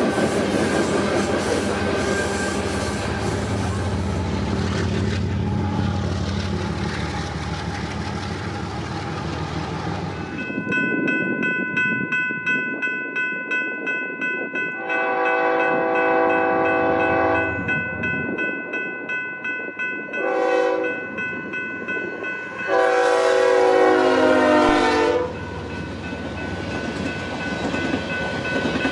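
Freight cars rolling past with steady wheel-on-rail noise; then a freight locomotive's air horn sounds three blasts, a long, a short and a long, over a steady high ringing, before the hopper cars pass.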